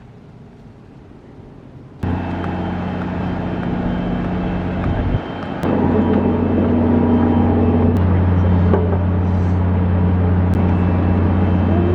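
A steady low mechanical hum, like a running motor, starts suddenly about two seconds in and gets louder about halfway through.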